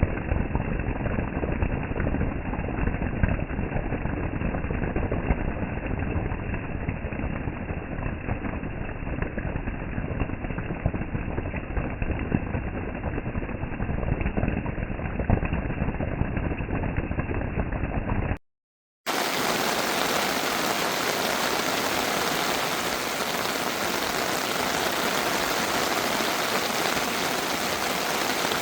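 Steady noise of a heavy downpour, in two recordings. The first is dull and rumbling. After a brief drop to silence about 18 seconds in, a brighter, even hiss follows.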